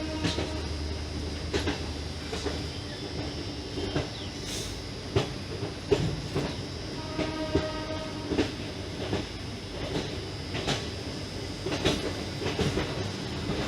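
Passenger train running, its wheels clattering over rail joints in irregular clicks above a steady rumble. Twice a short, steady pitched tone sounds: once at the start and once about seven seconds in.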